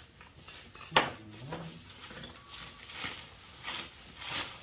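Metal parts being handled: a sharp clank about a second in, then lighter clinks and scrapes of metal on metal.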